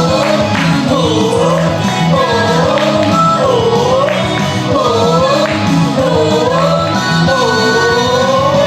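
Japanese idol pop song played loud through a PA: a woman's voice singing a repeating swooping phrase about once a second over an upbeat backing track.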